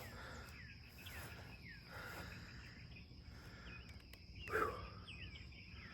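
Faint evening chorus of insects: a steady high-pitched drone with short falling chirps repeating about twice a second, and one louder call about four and a half seconds in.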